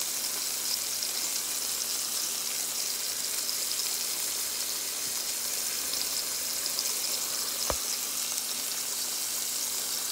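Ground-beef burger patties sizzling in hot oil in a frying pan, a steady high hiss. One sharp click about three-quarters of the way through.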